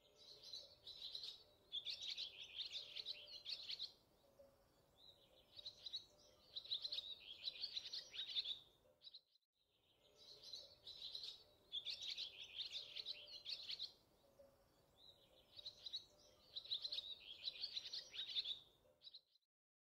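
Birdsong: groups of rapid, high chirps and trills lasting a second or two each. The same passage of about nine seconds plays twice over.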